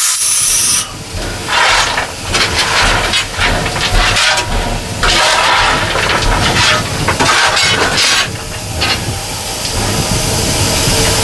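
Ww-class steam locomotive 644 hissing steam in irregular surges, heard in its cab, over a steady low rumble.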